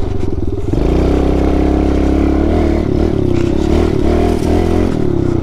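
Pit bike's small single-cylinder four-stroke engine under throttle while being ridden: the revs climb about a second in, then hold high, with the pitch dipping and rising again a few times in the second half.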